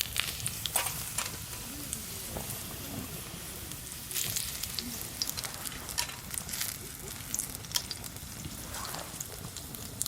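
Food sizzling in a pan over a wood campfire, with scattered sharp crackles and a few clicks.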